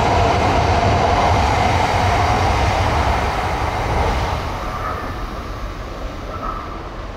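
E5 series Shinkansen train running past on the Tohoku Shinkansen line: a loud rush of wheel and air noise over a low rumble as the last cars go by. The noise sinks slightly in pitch and fades from about four seconds in as the train draws away.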